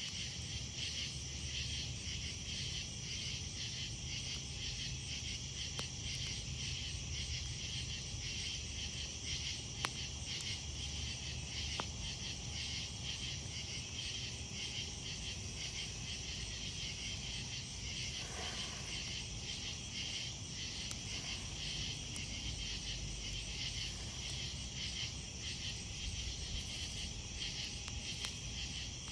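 Crickets chirping in a steady night chorus of rapid, even pulses, over the low sound of a campfire burning, with a few sharp crackles from the fire.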